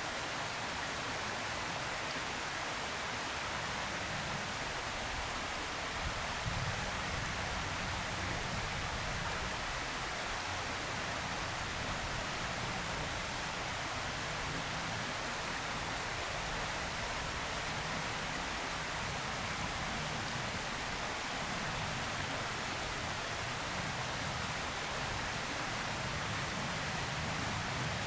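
Steady, even background hiss with a faint low rumble underneath, unchanging throughout, with no distinct calls or knocks.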